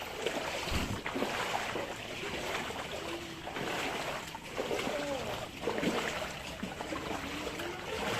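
Floodwater sloshing and splashing as people wade through it, with voices chattering in the background.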